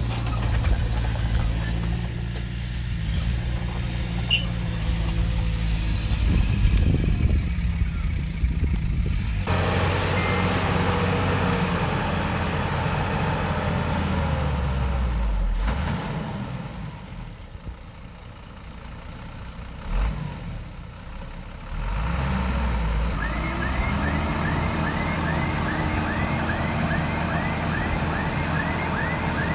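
Heavy-equipment diesel engine running, its sound changing abruptly a few times. Near the end a short squeaky chirp repeats about twice a second.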